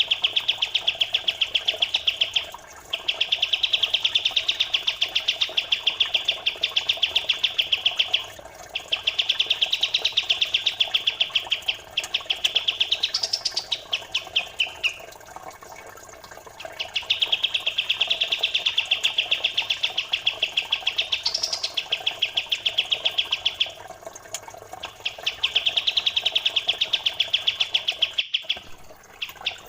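Recorded songbird chirping fast and tightly in long runs of several seconds, with short pauses between them. A steady trickle of running water plays underneath.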